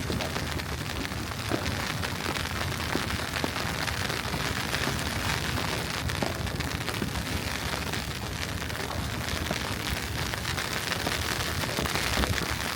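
Steady street ambience in a snowstorm: an even hiss over a low rumble, with a few faint ticks.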